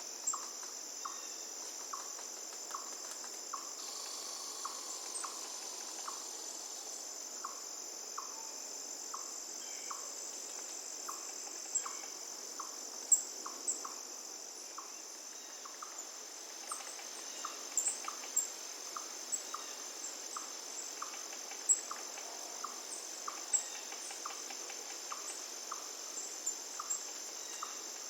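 Crickets trilling steadily and continuously at a high pitch, with a short lower note repeating about once a second. Scattered sharp high chirps stand out above it, the loudest about halfway through and again near three quarters of the way.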